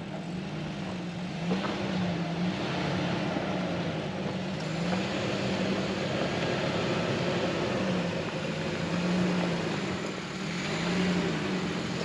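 Jeep Wrangler JL Rubicon engine running at low revs while crawling up a rocky trail obstacle, its note wavering up and down every second or so over a steady rushing noise.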